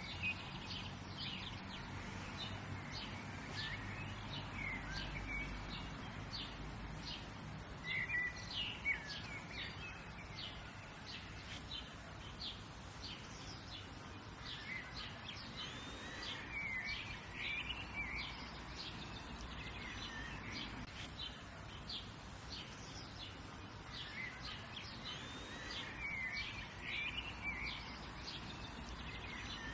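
Outdoor birdsong ambience: a steady run of short, high chirps, with a louder song phrase every nine seconds or so, over a faint low background rumble.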